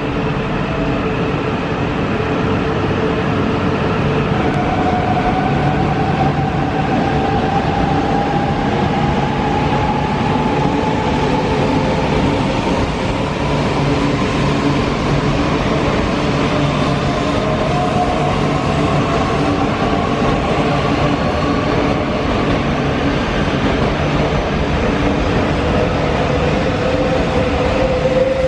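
JR East E4 series 'Max' double-decker Shinkansen pulling away from a station and running past at close range: steady rumble of wheels on rail, with a whine that rises slowly in pitch as the train accelerates.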